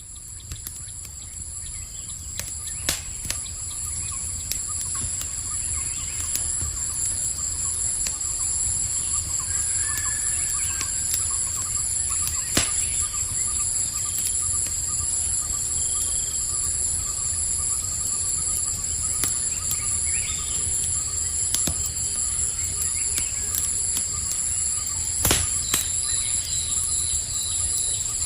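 Campfire crackling with scattered sharp pops over a low rumble, set against a steady high-pitched chorus of night insects, with a few faint bird chirps. The whole ambience fades up over the first few seconds.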